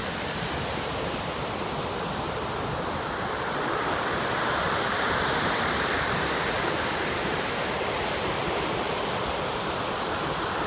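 Atlantic Ocean surf washing steadily, a continuous rush of breaking waves that swells slightly in the middle.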